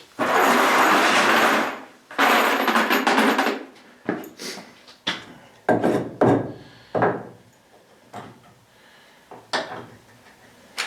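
Power drill running into wood twice, each time for about a second and a half, followed by several sharp knocks of wooden boards being handled and set down.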